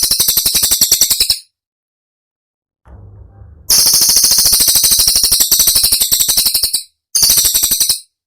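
Cililin songbird giving its rapid-fire 'tembakan' call: three bursts of very fast, evenly repeated high, sharp notes, each cut off abruptly. The first burst stops about a second and a half in, the longest starts a little after three and a half seconds, and a short one comes near the end.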